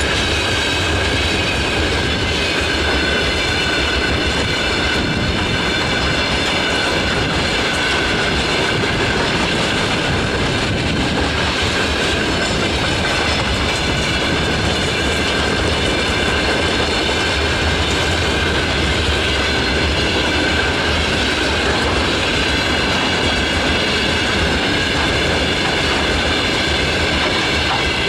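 Freight train's wagons rolling past steadily, wheels clattering on the rails, with a continuous high squealing ring from wheels and rails.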